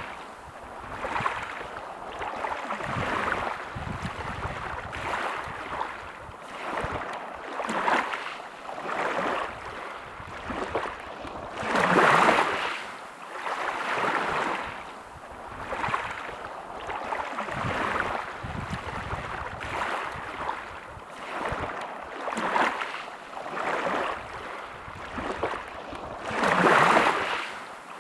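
Small sea waves washing onto a beach, a rush of water swelling and fading every second or two, with two bigger waves breaking, one near the middle and one near the end.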